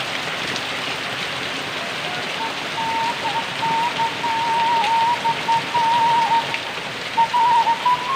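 Heavy rain falling steadily. From about two and a half seconds in, a single wavering flute melody, a bamboo suling, plays over it.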